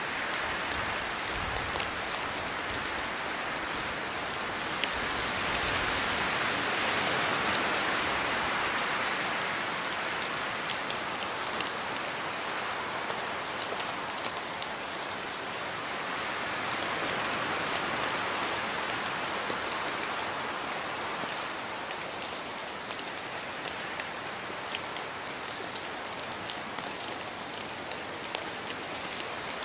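Steady rain falling, with sharp individual drops striking close by over the constant hiss. It swells louder twice, about a quarter of the way in and again past the middle.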